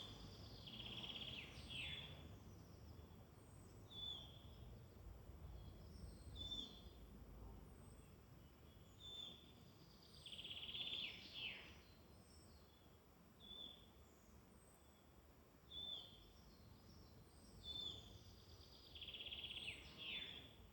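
Songbirds in a European woodland. One repeats a short trilled song phrase ending in a quick falling flourish about every nine seconds, three times. Another gives short high call notes about every two seconds, over a faint low rumble.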